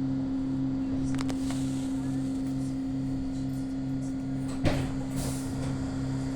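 Steady electrical hum inside a passenger train, with a lower tone that pulses on and off about twice a second, and one sharp knock about four and a half seconds in.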